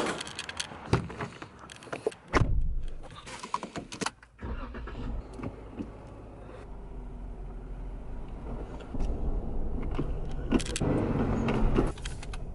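Jeep being started and driven off: clicks and knocks of the door and keys, then about four seconds in the engine starts and runs with a steady low rumble, getting louder as it pulls away near the end.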